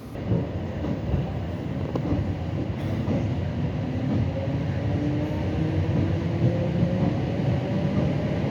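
Suburban electric train heard from inside a carriage while running: rumble of wheels on rail with a motor whine that slowly rises in pitch as it gathers speed. The noise jumps up suddenly at the very start and then grows steadily louder.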